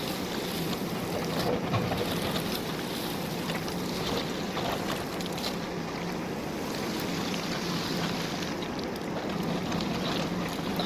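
JCB backhoe loader's diesel engine running steadily with a low hum, mixed with wind noise.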